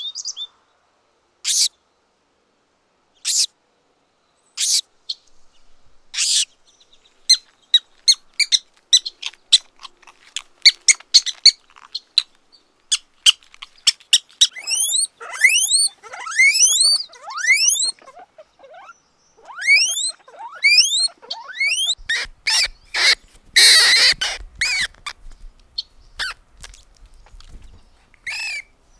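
Small rodents, mice and hamsters, squeaking. At first single high-pitched squeaks come a second or two apart. From about halfway through they turn into quick runs of rising chirps.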